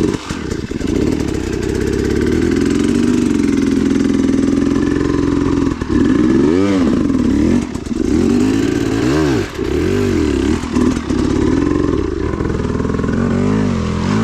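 KTM 300 XC-W single-cylinder two-stroke dirt bike engine running under load. From about halfway through, the revs rise and fall several times as the throttle is worked.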